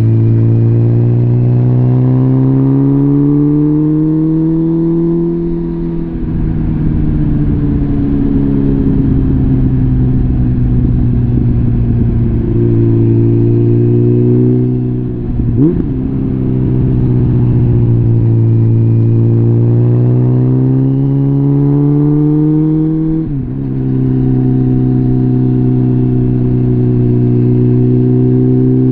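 Suzuki GSF650 Bandit's inline-four engine through a full Arrow exhaust system, ridden on the road: the exhaust note climbs steadily under throttle, falls away at a change about six seconds in, jumps briefly near the middle, climbs again and drops sharply at a shift a few seconds before the end, then holds steady.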